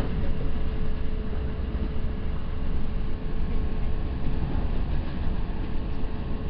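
Steady rumble of a New Jersey Transit bi-level (Multilevel) passenger car's wheels on the rails, heard inside the car as the train runs at speed. A faint steady hum sits under the rumble.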